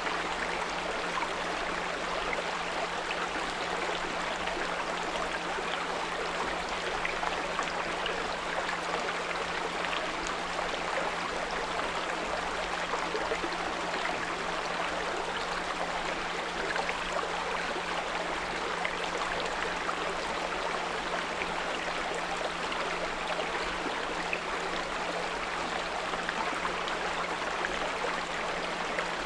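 A small brook babbling steadily over stones, with a steady low pure tone of 174 Hz laid over it.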